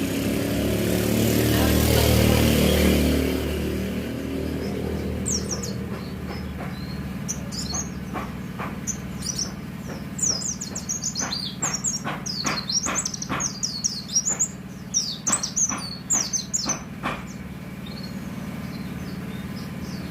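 A vehicle passes close by in the first few seconds, then a white-eye (pleci) sings a run of quick, high chirps, thickest in the middle and latter part, over a steady low traffic hum.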